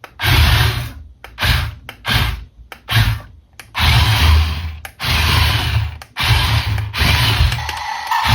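Small electric motor and gears of a toy RC car whirring in repeated short bursts, starting and stopping sharply about a dozen times.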